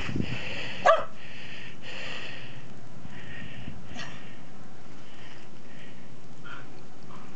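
A dog barks once, short and sharp, about a second in, with a fainter short bark a few seconds later, over a patchy steady hiss.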